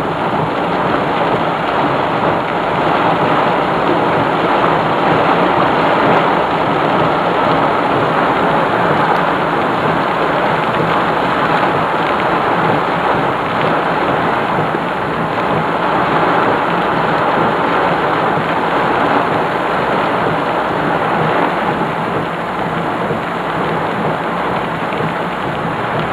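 Heavy thunderstorm rain pouring down steadily, a dense unbroken hiss.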